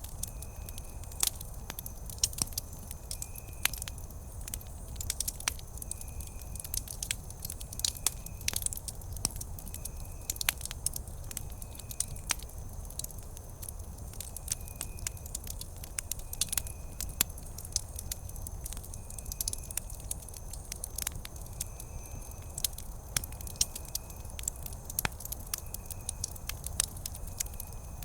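Wood campfire crackling steadily, with frequent sharp pops over a low rumble of burning. A faint short high chirp repeats about once a second.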